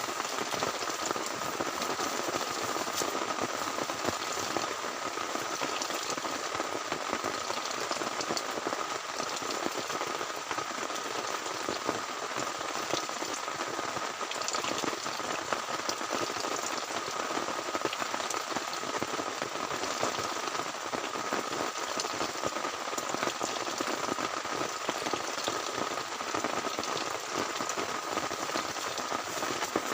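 Heavy rain falling steadily without a break, a dense hiss made up of countless small drop hits.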